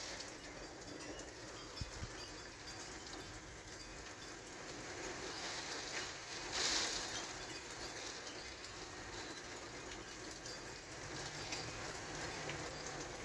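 Thunderstorm wind and rain making a steady rushing noise, swelling louder for a moment about seven seconds in.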